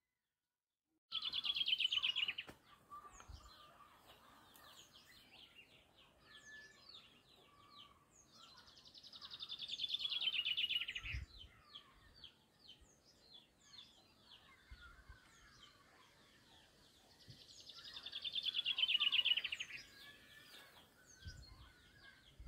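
Songbirds singing. One bird repeats a loud, fast, descending trill lasting two to three seconds, three times about eight seconds apart, with fainter chirps from other birds in between.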